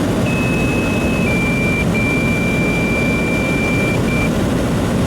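Two-tone sequential fire dispatch page over a radio: a steady high tone for about a second, then a slightly lower tone for about three seconds with a couple of brief dropouts. A steady low rumble runs underneath.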